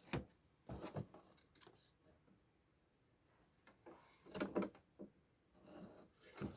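Scattered clicks and knocks from handling tools and small electronic parts during a TV power-board repair, a few short clusters with quiet between.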